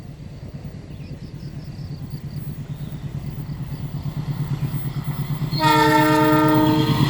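American-built diesel locomotive approaching, the low, pulsing rumble of its engine growing steadily louder. About five and a half seconds in, its air horn sounds one chord blast of about a second and a half.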